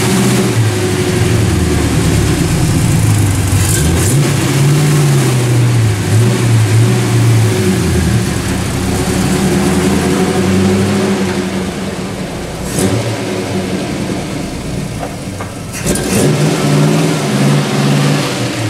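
Chevy 305 small-block V8 in a Subaru Impreza running and being revved as the car reverses out under its own power. The engine note rises and falls with repeated throttle blips, drops back in the middle, and is revved again near the end.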